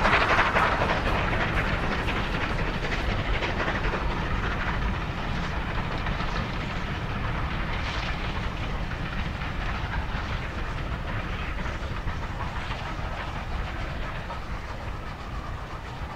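Passenger train rolling along the track, heard from aboard: a steady rumble with the clickety-clack of wheels over rail joints. The sound fades gradually toward the end.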